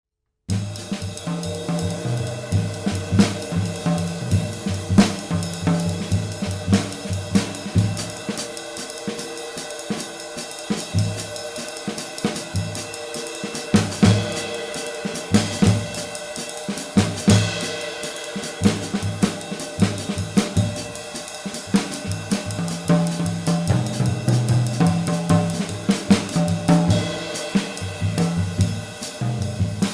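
A drum kit groove played on a 20-inch B20 bronze medium sizzle ride cymbal, which gives a steady shimmering wash over kick, snare and hi-hat. The heavy low drums thin out through the middle stretch and come back strongly near the end.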